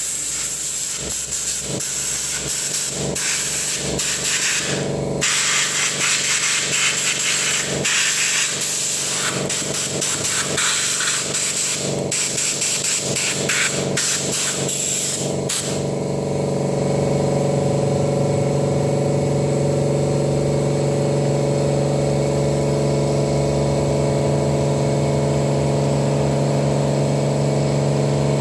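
Compressed air hissing from an air compressor's blow nozzle in repeated short blasts, blowing dust off a mixing-desk circuit board. About sixteen seconds in the blasts stop and the compressor's motor runs with a steady hum.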